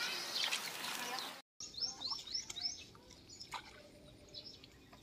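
A bird gives four quick rising chirps in a row, after about 1.5 s of loud, even rustling noise that ends abruptly; a faint outdoor background with a few small clicks follows.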